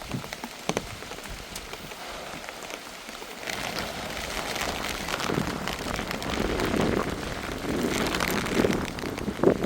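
Heavy rain falling, with many separate drop hits, growing louder about three and a half seconds in.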